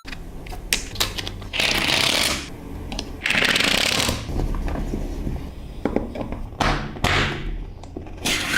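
Small magnetic balls clicking and rattling against one another as they are handled, with two longer rattling runs about two and three and a half seconds in and scattered single clicks.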